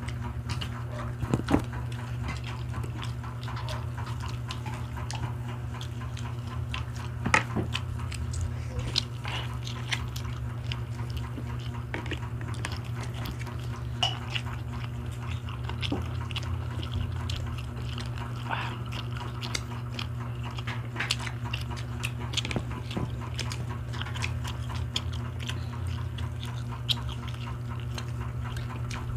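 People chewing and biting grilled barbecue skewers, with scattered small clicks and knocks of skewers and dishes over a steady low hum.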